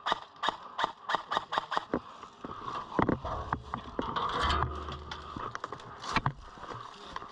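Footsteps on dry ground, about three quick steps a second for the first two seconds, then gear rustling with a few single knocks.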